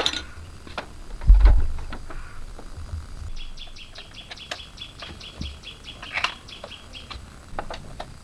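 A small bird chirping in a rapid even run, about six short high chirps a second, for some four seconds from about three seconds in. Before it come scattered light clicks and knocks and one low thump about a second and a half in, the loudest sound.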